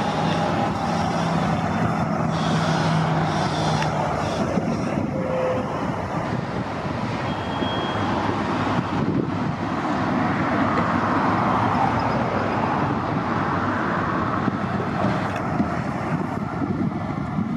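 City transit buses running at a bus terminal, a steady engine and traffic noise, with a low hum through the first few seconds.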